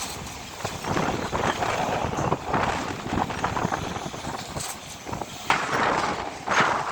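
Heavy truck traffic running, mixed with wind buffeting the microphone in uneven gusts, the strongest gust coming near the end.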